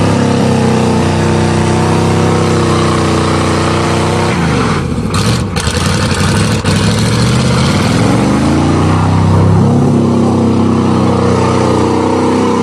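1988 Chevrolet pickup's 305 small-block V8 held at high revs in mud, its ignition wires wet. About four seconds in the revs fall away under a rush of noise, then climb back up over the next few seconds and hold steady.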